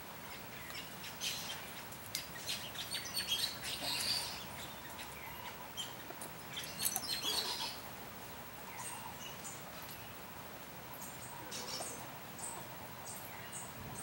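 Small birds chirping and chattering in quick high bursts, busiest in the first few seconds and again about seven seconds in, with scattered chirps afterwards.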